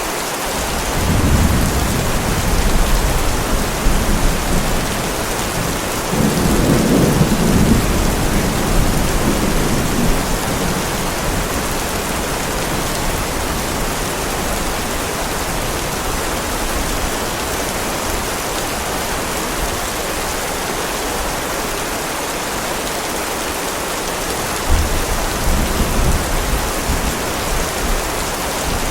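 Steady heavy rain with rolls of thunder: a rumble about a second in, a louder one about six seconds in, and another near the end.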